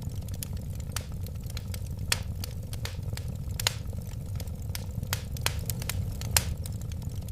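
Wood fire crackling steadily: irregular sharp pops and snaps over a low, even rumble of the flames.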